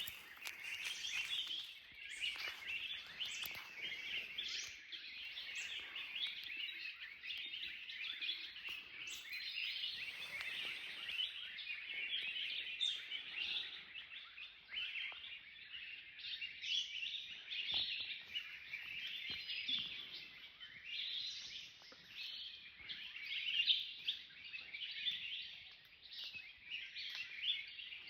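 Many small birds chirping and calling at once, a continuous chatter of short overlapping chirps.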